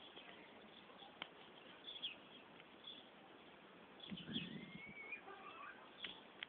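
Faint birdsong: scattered short chirps, with a longer rising call about four to five seconds in.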